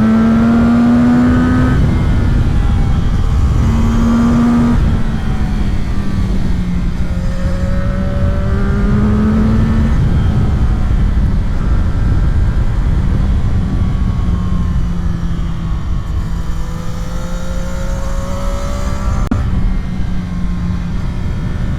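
CFMOTO 675 SR-R's three-cylinder engine under hard acceleration, its pitch rising through the revs several times and dropping back at each gear change.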